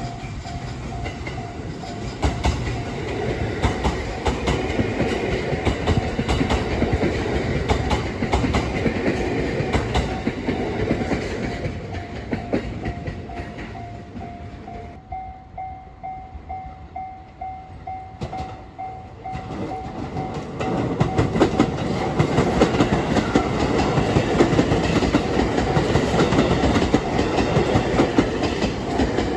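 JR Hanwa Line trains passing over a level crossing, their wheels clattering over the rail joints. A level-crossing warning bell rings steadily all the while. The clatter eases off about halfway and then builds loud again as the running continues.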